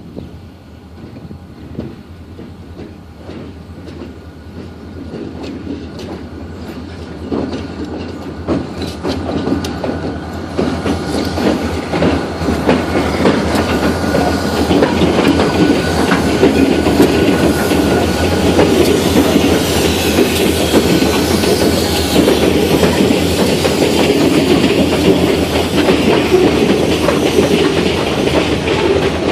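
Pan Am Railways freight train passing close by: several diesel locomotives grow steadily louder over the first half as they approach and pass. Boxcars follow, their wheels clicking and clattering over the rail joints.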